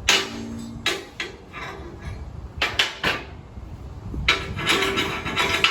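Torch-cut steel plate being struck and handled: sharp metal knocks with a short ring. There are a few spaced hits, then a quicker clatter of hits and scraping in the last second and a half.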